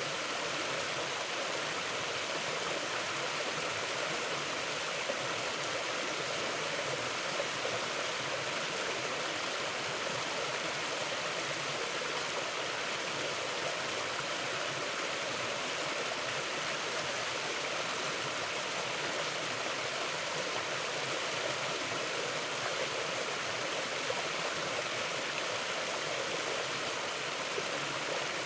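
A forest stream flowing, a steady, even rush of running water with no breaks.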